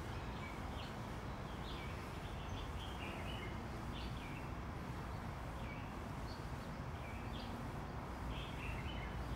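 Small birds chirping, short calls about once a second, over a steady low rumble of outdoor background noise.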